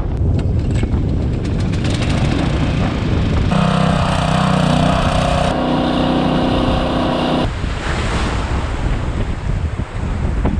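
Strong gale-force wind buffeting the microphone in a heavy, continuous rumble. For about four seconds in the middle, a steady held tone with several pitches sits over it, starting and stopping abruptly.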